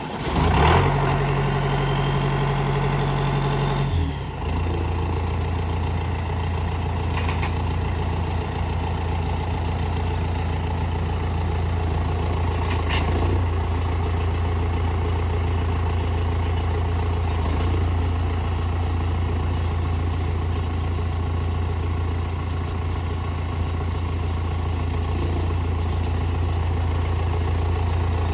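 2006 John Deere 6415 tractor's diesel engine running just after starting, at a faster idle for about four seconds, then dropping to a lower, steady idle.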